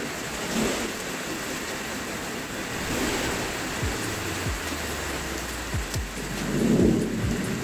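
Steady hiss of rain, with several deep thumps in the second half.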